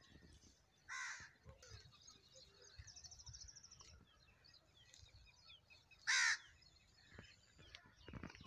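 A bird calling loudly twice, about five seconds apart, each a short single call; a faint quick trill of a small bird in between.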